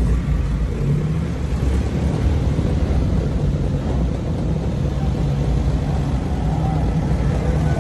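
Classic car engines running at low revs as the cars drive off one after another: an Alfa Romeo Giulia saloon pulls away close by, then an older grey Fiat saloon follows. A steady low rumble throughout.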